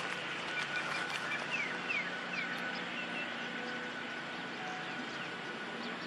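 Outdoor ambience with small birds chirping: a quick run of short falling chirps a second and a half to two and a half seconds in, over a steady thin high tone and a low background hum.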